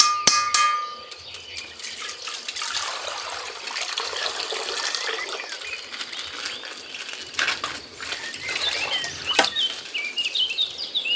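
Plastic ice-pack bag of coloured water being burst and torn open: crinkling, rustling plastic and splashing water, with a few sharp clicks about a second in. Short bird chirps come through near the end.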